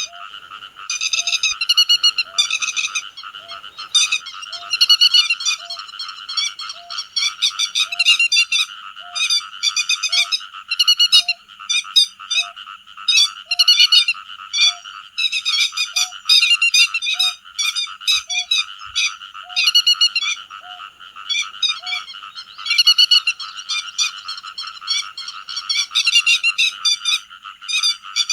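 Grey-headed lapwing (te vàng) calling over and over in quick, sharp, repeated notes, as used in a lure track to call in a flock, over a steady shrill chorus in the background.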